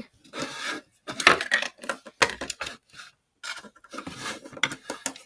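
Plastic Littlest Pet Shop figures and playset pieces being handled, with irregular clicks and clattering as they knock together and are set down.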